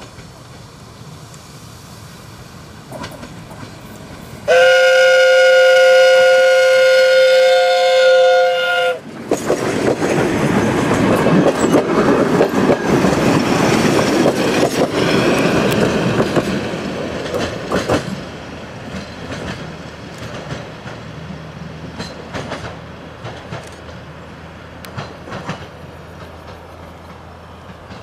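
Ganz-Mávag D1 diesel multiple unit sounding a steady horn blast of about four and a half seconds, a chord of two tones at once. It then passes close by with loud clickety-clack of wheels over rail joints, which dies down after about eight seconds to a quieter rumble with scattered clicks.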